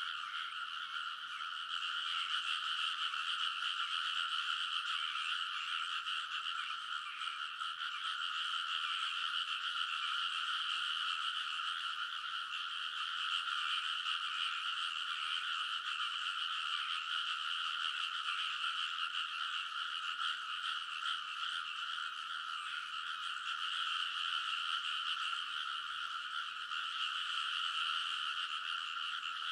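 A dense chorus of many rice-paddy frogs croaking together without pause, their overlapping calls merging into a steady, shrill wall of sound.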